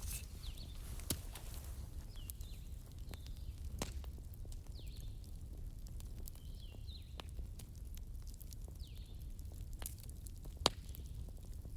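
Wood campfire crackling, with scattered sharp pops over a low steady rumble; one pop about ten and a half seconds in is louder than the rest. Faint high chirps run in the background.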